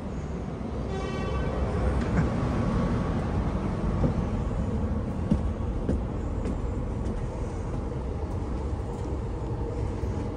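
Steady hum and rumble of a stationary double-deck electric suburban train waiting at the platform, heard beside the train and then inside the carriage. A brief pitched tone sounds about a second in, and a few light knocks follow a few seconds later.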